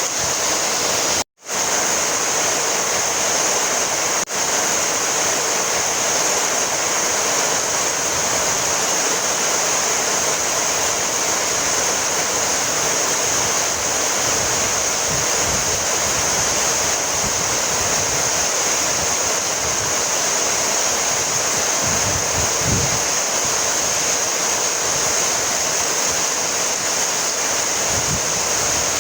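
Heavy rain falling steadily, a dense even hiss. It cuts out for an instant about a second in.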